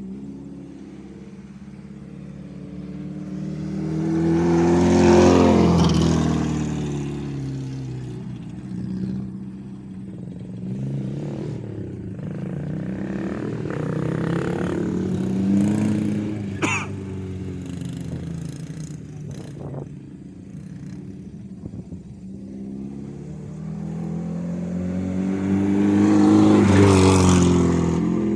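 Acura RSX's four-cylinder engine running hard as the car laps and passes close by twice, about five seconds in and again near the end, the engine note rising as it nears and falling as it goes away. A few sharp ticks in between.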